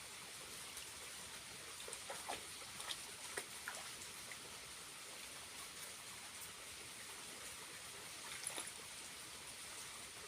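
Small waterfall's trickle of water: a faint, steady splashing hiss with scattered drips now and then.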